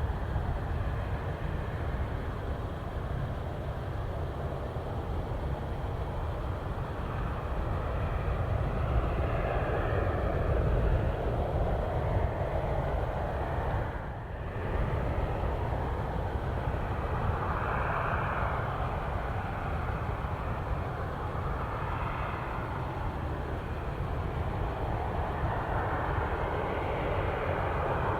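Jet engines of a Boeing 767 freighter running: a steady rumble with a rushing jet noise that swells and fades several times, dipping briefly about halfway through.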